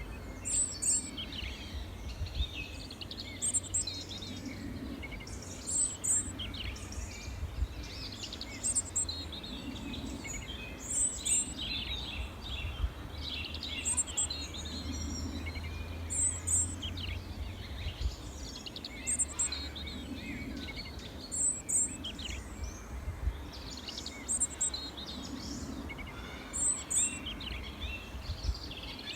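Small songbirds chirping and twittering, with one high, sharp call repeating evenly about every two and a half seconds. A low rumble runs underneath.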